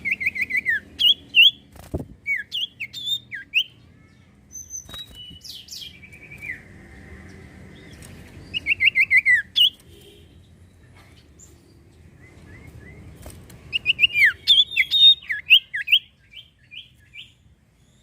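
A sirtu (cipoh) songbird singing in repeated bursts of rapid, falling whistled notes, with short pauses between the phrases and a livelier run near the end.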